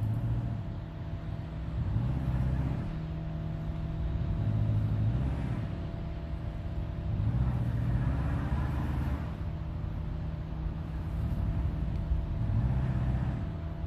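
A motor vehicle's engine running at low speed, its sound swelling and easing every two to three seconds.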